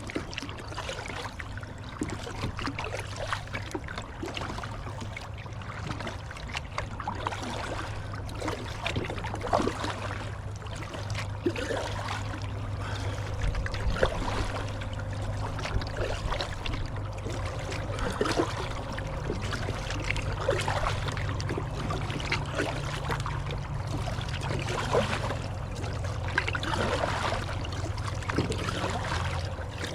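Kayak paddle strokes dipping and splashing in the river, about one every two seconds, with relaxed strokes moving upriver against the current. Steady low rush of river water underneath.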